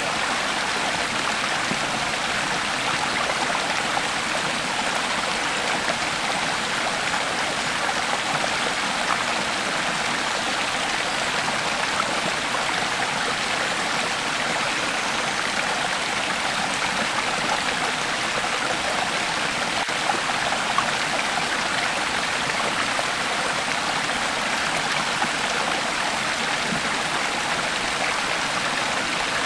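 Creek water flowing steadily over rocks, an even rushing and trickling.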